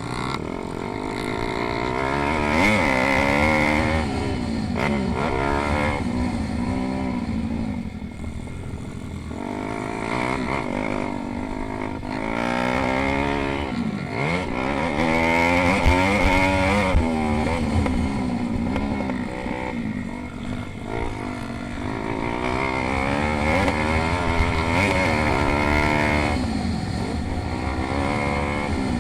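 Pit bike engines revving hard as they race, their pitch repeatedly rising and falling with the throttle and gear changes. At times more than one bike is heard at once.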